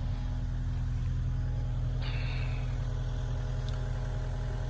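Mini excavator's engine idling steadily, a constant low hum.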